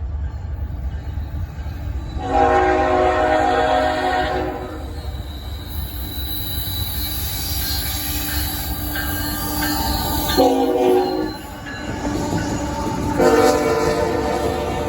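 Norfolk Southern locomotive horn sounding three blasts, long, short, then long, over the steady low rumble of the running train.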